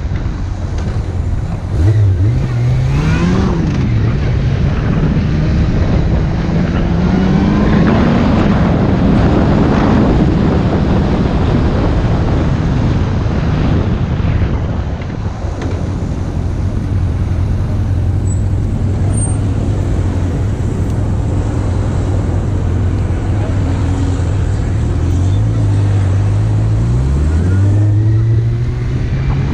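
Motorcycle engine running under way, its pitch climbing in steps as it accelerates through the gears about two seconds in and again near the end, over a steady rush of wind and road noise.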